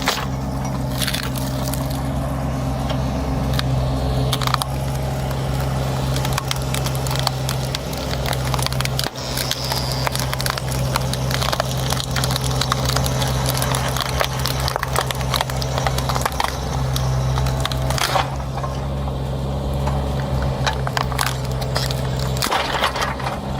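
A heavy machine's engine running steadily while wood cracks, splinters and crunches under it, with sharp snaps scattered throughout.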